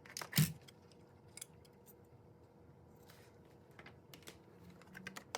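Light clicks and small rattles of plastic parts and wiring being handled inside an opened dishwasher door panel, with one sharper click about half a second in.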